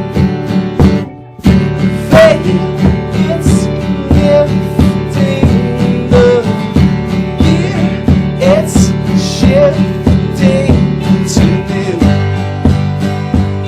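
A band playing live, led by a strummed acoustic guitar in a steady rhythm with a melody line over it, with a brief drop in the playing about a second in.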